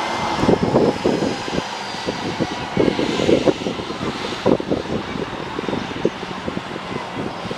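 Airliner engine noise, a steady rush with a faint high whine running through it, with irregular low thumps throughout.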